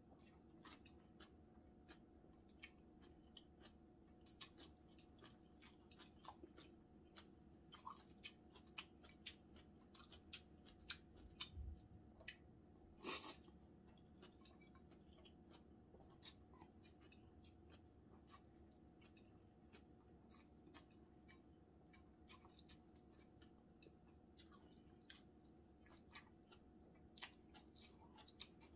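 Quiet close-up eating sounds of cold spicy bibim naengmyeon noodles being slurped and chewed: soft, irregular wet clicks and smacks of the mouth. One louder slurp-like sound comes about thirteen seconds in.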